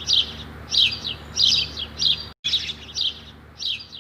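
Budgerigars chirping: short, high, falling calls repeated about every half second, with a brief dropout in the sound a little past halfway.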